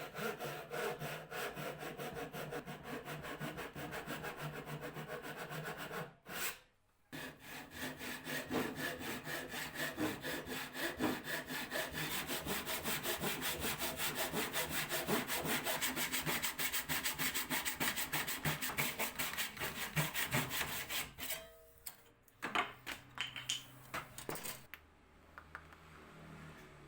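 A hand tool worked back and forth on wood in quick, even strokes. There is a brief pause about six seconds in, the strokes stop about 21 seconds in, and a few scattered scrapes follow before it goes quiet near the end.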